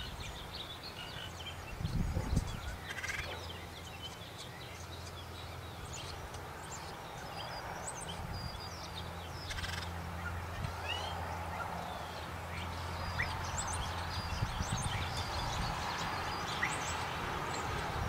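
Birds calling outdoors: scattered short chirps and quick upward-gliding notes over a low steady hum, with a brief low rumble about two seconds in.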